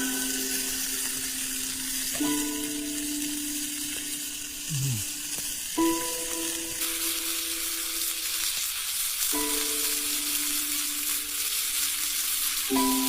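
Food sizzling as it fries in hot oil, a steady hiss that grows louder about seven seconds in, under soft background music of long held notes changing every few seconds.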